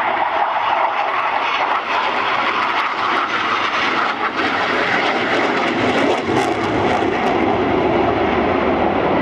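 Spanish Air Force EF-18 Hornet's twin General Electric jet engines sounding as the fighter flies a display pass. The steady jet noise grows a little louder and deeper toward the end.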